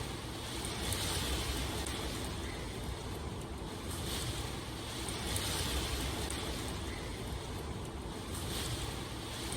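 Steady rushing water ambience that swells and eases about every four seconds.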